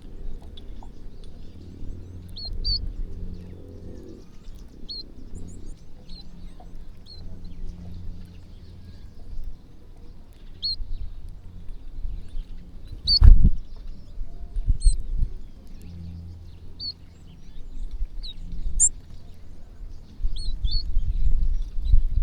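Flock of small birds chirping at a feeding spot, with short scattered chirps coming every second or so over a low rumbling background. A sharp thump about 13 seconds in is the loudest sound.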